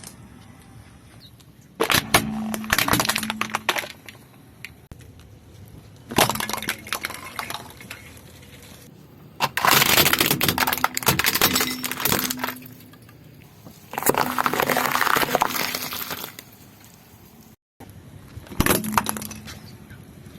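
Brittle objects cracking and crunching as a car tyre rolls over and crushes them, in about five separate bursts of dense crackling a few seconds apart.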